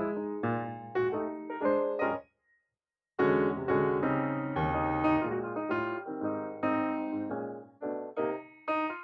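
Background piano music: struck notes and chords that die away, with a pause of about a second a little over two seconds in.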